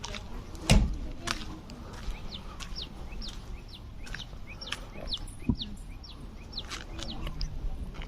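Small birds chirping, a quick series of short falling notes repeated throughout, over a low rumble. A sharp knock sounds just under a second in, the loudest thing heard, and a softer one past the middle.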